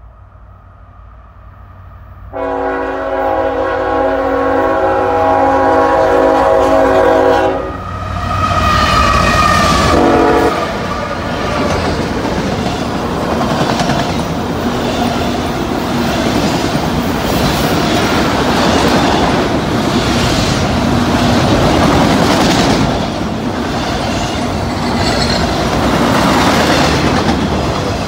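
A CSX freight train's lead locomotive, a GE ET44AH, sounds a long horn blast about two seconds in, lasting about five seconds, then a short second blast. The locomotives then pass and a long string of empty autorack cars rolls by, wheels clacking steadily on the rails.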